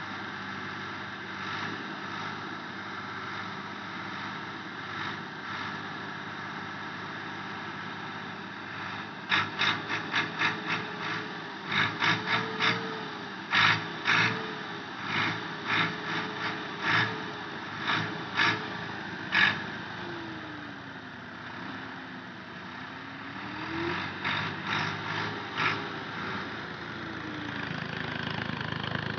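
Tractor engine running, its revs rising and falling, with bursts of short sharp clanks or knocks over the engine sound.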